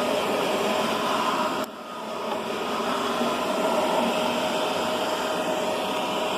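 Riccar Brilliance upright vacuum cleaner running steadily, a loud motor hum with a steady whine. About a second and a half in, the sound drops suddenly, then builds back up over the next second.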